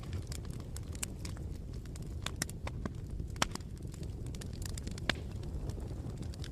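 Campfire burning: burning wood crackling with irregular sharp pops over a low, steady rumble, with a couple of louder pops around the middle.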